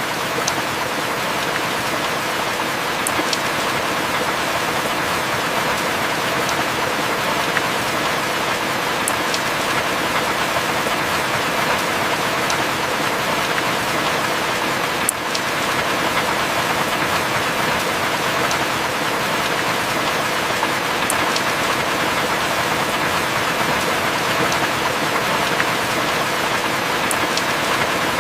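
Heavy rain falling steadily as an even hiss, with an occasional sharp drop tick.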